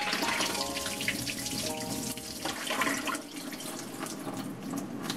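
Water running from a kitchen tap into a sink, with light clatters, over soft background music.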